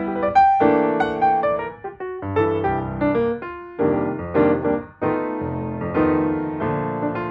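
Background piano music: chords and melody notes played at a moderate pace.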